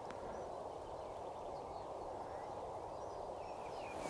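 Faint birdsong at dawn: scattered short chirps and calls from several small birds, over a steady low background hum of outdoor ambience.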